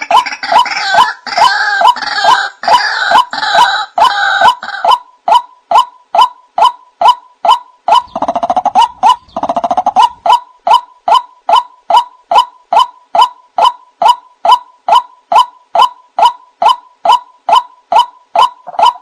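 White-breasted waterhens calling: a long run of repeated croaking notes, about two and a half a second, each opening with a sharp click. The calling is fuller and overlapping for the first five seconds, then settles into a single even series.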